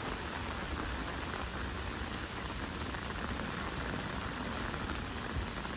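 Steady rain falling, with a few sharper drop hits near the end.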